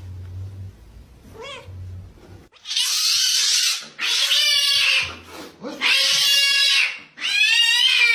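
A cat meowing loudly: one faint short call, then four long, drawn-out meows one after another, about a second and a half apart.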